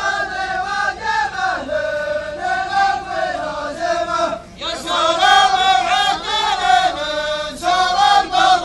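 A group of men chanting together in unison, in long held sung phrases. There is a short break about four and a half seconds in, then the next phrase starts louder.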